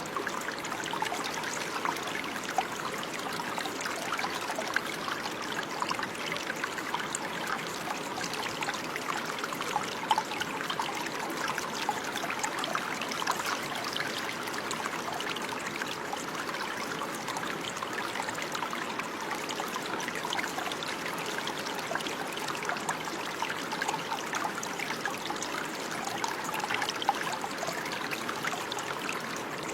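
Running water trickling steadily, with many small splashes and gurgles.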